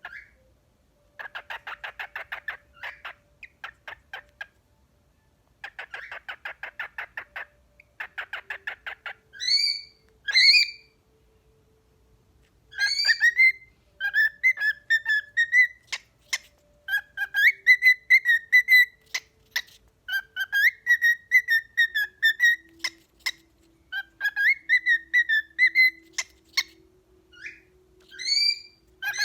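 Two pet cockatiels whistling against each other. First come two runs of fast, pulsing chatter, then rising whistled notes, then from about halfway through long, tuneful whistled phrases that overlap.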